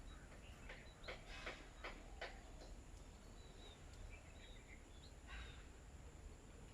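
Faint, scattered short chirps from small birds feeding on scattered rice, with a quick run of sharp clicks about a second in, over a steady faint high-pitched hiss.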